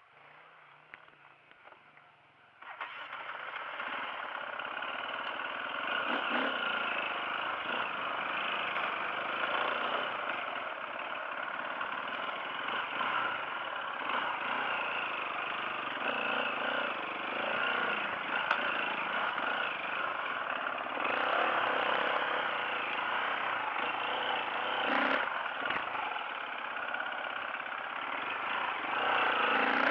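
Off-road motorcycle engine, quiet at first, then coming in suddenly about three seconds in and running steadily for the rest, rising and falling a little as the bike is ridden.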